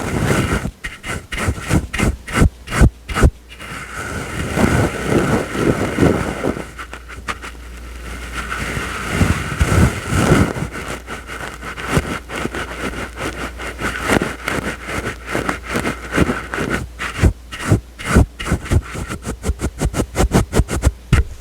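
Soft ASMR brush strokes: bristles swishing and scraping in quick rapid strokes, with slower, longer sweeps in the middle.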